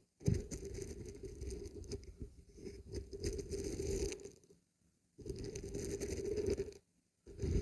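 Dried beans and barberries being shaken, a dense pattering rattle in three bouts with short breaks about four and a half and seven seconds in.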